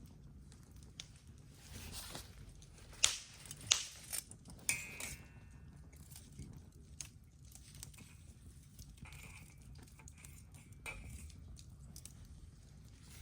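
Wood campfire crackling, with irregular snaps and a few sharp pops clustered about three to five seconds in.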